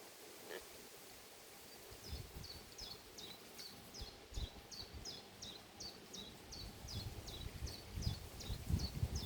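A small bird calling over and over, a short high chirp that drops in pitch, about three a second, starting about two seconds in. Low rumbles come in near the end.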